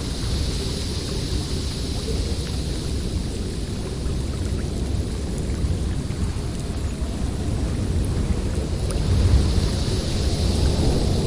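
Snowstorm wind blowing in gusts: a deep steady rumble under a higher hiss that swells at the start and again near the end.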